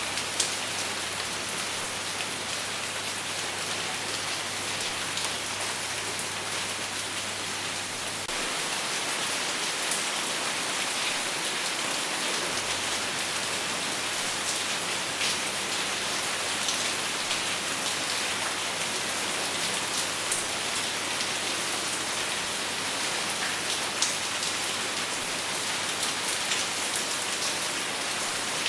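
Steady rain falling on a surface, no thunder: a dense, even hiss with scattered sharp drop ticks.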